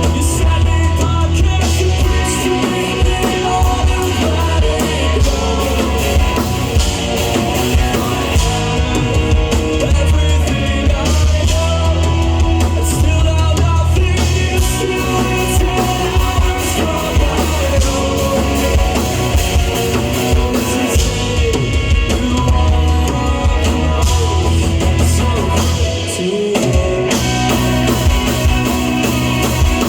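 Live rock band playing amplified through a PA: drum kit, electric guitars and bass. The bass and kick drop out briefly near the end.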